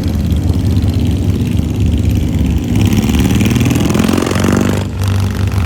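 Motorcycle engine running, revved up once through the middle with its pitch rising, then dropping back to a lower run just under five seconds in.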